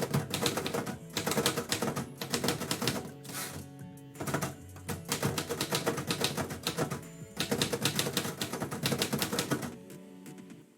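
Typewriter keys striking in quick runs of keystrokes with brief pauses between them, over steady background music; the typing stops near the end.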